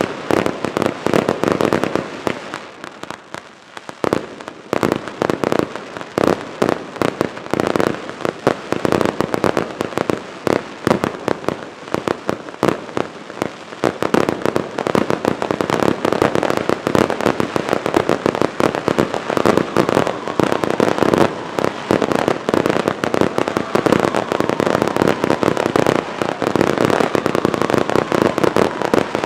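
Fireworks display: a dense, rapid string of sharp bangs from bursting shells and effects, thinning briefly a couple of seconds in and then building to an almost continuous barrage from about halfway on.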